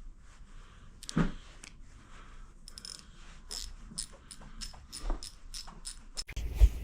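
Hand tools being handled during car repair: a single knock about a second in, then a run of light metallic clicks, about three a second, like a ratchet or sockets clinking, and louder handling noise near the end.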